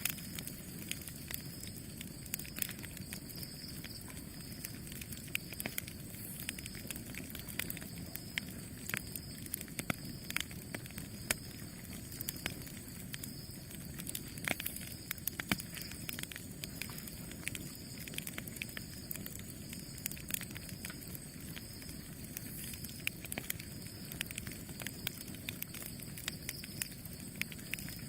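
Campfire burning: a steady low rumble of flames with frequent, irregular sharp crackles and pops of burning wood.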